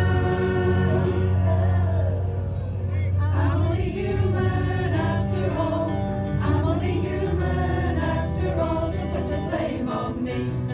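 Music with several voices singing together, choir-like.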